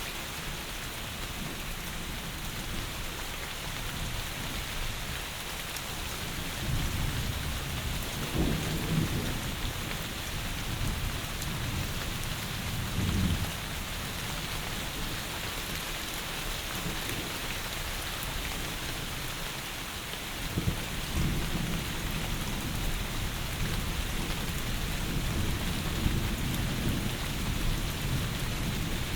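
Heavy rain falling steadily, with low rolls of distant thunder rumbling up several times, around a quarter of the way in, near the middle and again in the last third.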